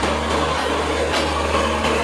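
Bangladesh Railway intercity passenger coaches rolling past close by, with steady wheel and running noise, a low hum, and several knocks of wheels over rail joints.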